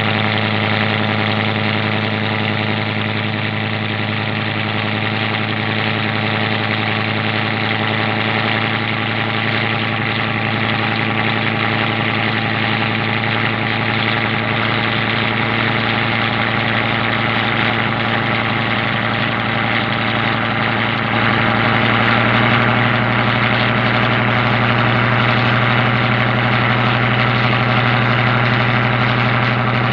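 A boat's engine running steadily with a deep, even hum; about two-thirds of the way through it picks up slightly, a little higher in pitch and a little louder.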